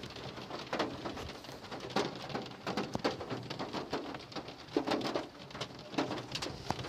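Rain pattering on a car's body, heard from inside the cabin as irregular light ticks and taps.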